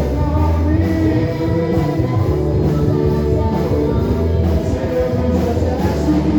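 Live worship band playing a gospel praise song, with singing over a steady bass and full band backing.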